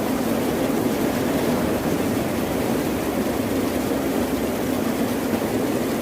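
Ocean surf: a steady, continuous wash of waves with no single break standing out.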